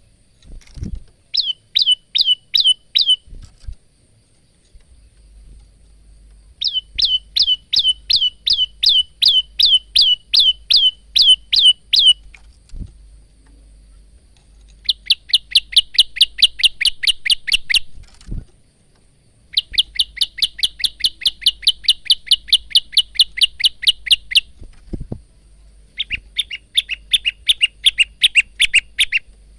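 Male olive-backed tailorbird singing: five bursts of rapid, evenly repeated sharp chirps, each burst lasting a few seconds with short pauses between.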